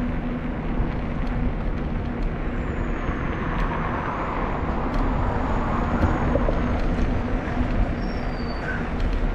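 Road traffic passing a moving bicycle, with wind rushing over the microphone. Two vehicles swell up and fade away, and a steady low hum runs under the noise.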